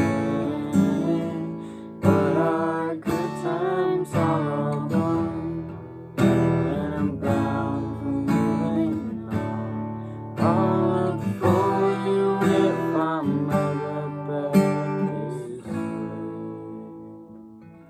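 Acoustic guitar playing the closing chords of a folk song, with a strong strummed chord about every four seconds left ringing out between strokes, fading away near the end.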